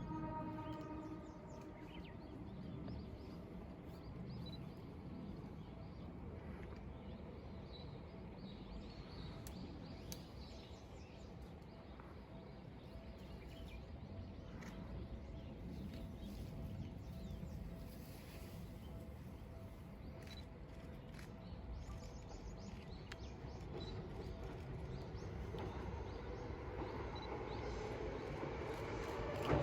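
Quiet outdoor ambience with occasional faint bird chirps. Over the last few seconds a Seibu 2000 series electric train's approach rises steadily in loudness.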